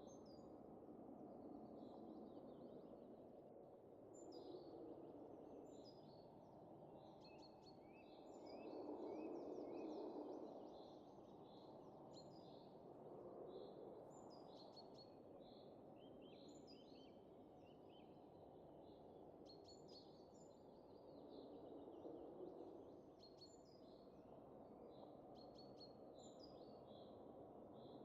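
Faint soft wind that swells in gentle gusts, with small birds chirping again and again over it.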